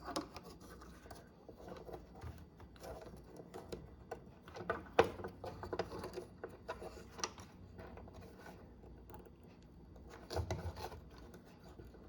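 Faint, irregular scraping and clicking of hard plastic as a microwave door interlock switch is worked at by hand to free it from its tight plastic retaining hook, with a few sharper clicks.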